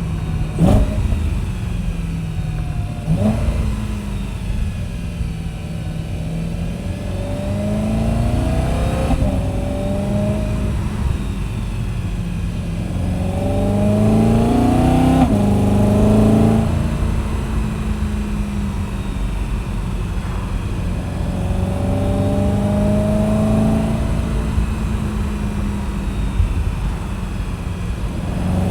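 BMW E92 M3's V8 and M Performance exhaust pulling through the gears. The engine note climbs in pitch and falls back sharply at each upshift, about four times, then holds steady in between as the car cruises.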